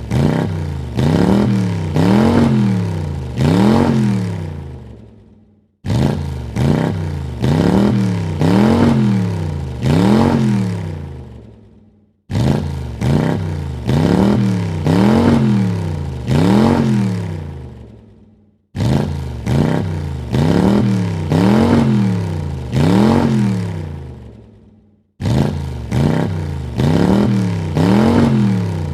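Car engine revved in four quick blips, the pitch climbing and dropping each time, then dying away. The same burst of four revs repeats about every six and a half seconds.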